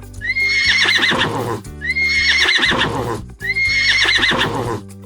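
A horse whinnying, the same neigh three times in a row, over children's background music.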